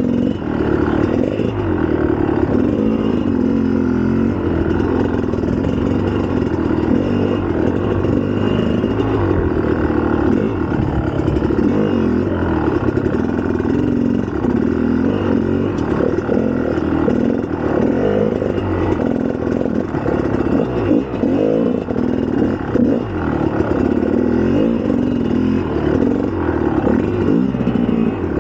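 2004 GasGas EC300's single-cylinder two-stroke engine running under riding, its revs rising and falling continuously.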